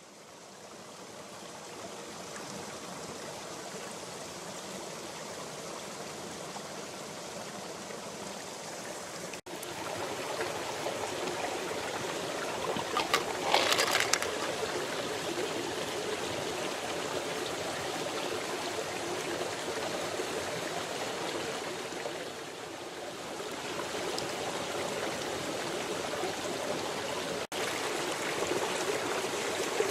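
Small stream flowing steadily, with a short louder burst of noise about thirteen seconds in.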